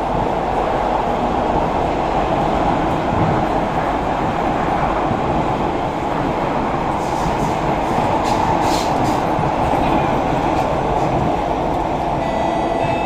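Inside a Kawasaki–CRRC C151A metro car over its bogie: steady loud rumble of wheels and bogie at running speed. About seven to nine seconds in come a few brief sharp creaks from the bogie, the kind of noise that sounds as if the carriage is going to crack, and near the end a steady whine joins in.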